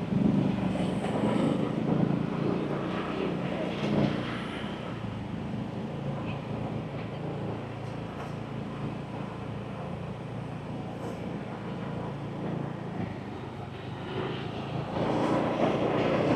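Motorbike riding slowly along a street: a steady drone of engine and road noise, getting louder near the end.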